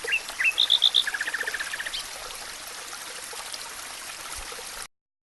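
A stream running steadily while a songbird sings one short phrase: a few slurred rising notes, four loud high notes, then a quick trill of about ten lower notes. The sound cuts off suddenly near the end.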